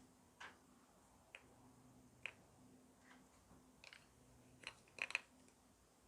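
Sherbet slime being worked by hand, giving faint scattered clicks and pops, with a quick cluster of them about five seconds in.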